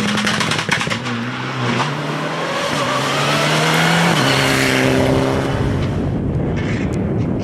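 Rally car engine at high revs, its pitch climbing and stepping down at several gear changes, growing louder as the car passes close by about four to five seconds in.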